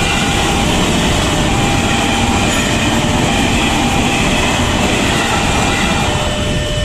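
KRL commuter electric train running past on the rails, a dense steady rumble that eases near the end as the last car clears. A level-crossing warning alarm sounds over it in steady repeating tones.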